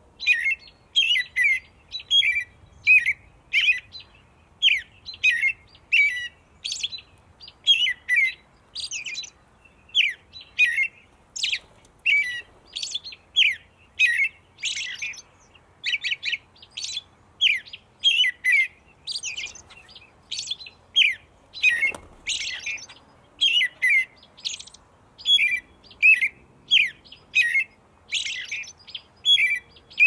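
A songbird chirping over and over without a break, about two short, high chirps a second.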